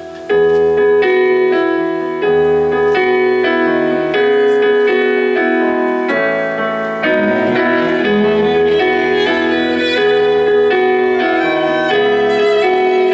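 Instrumental outro of a pop ballad played live on piano: held chords struck one after another, about every one to three seconds, after the last sung line.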